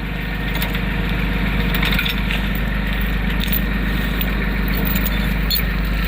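A vehicle engine running steadily, growing a little louder over the first couple of seconds, with a few light clicks over it.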